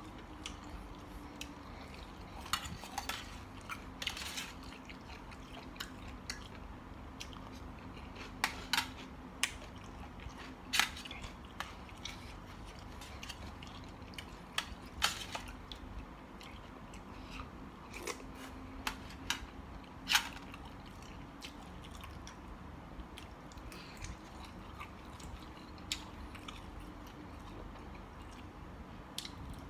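Someone eating spicy seafood salad: quiet chewing, with sharp clicks of cutlery against a dish every second or two over a faint steady hum.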